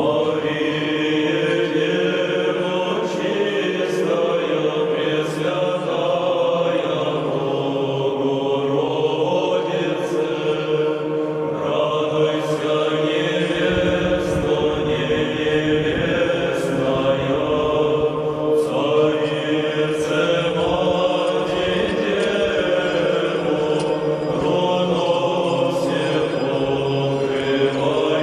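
A group of voices singing an Orthodox church chant together, the long notes held and moving slowly from pitch to pitch. A low rumble joins the singing about halfway through.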